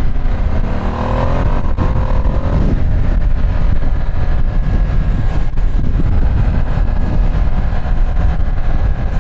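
Ducati Streetfighter V2 S L-twin engine accelerating, its pitch rising, with a brief break about two seconds in like a quick gear change. After that it settles into a steady loud rumble of engine and wind at riding speed.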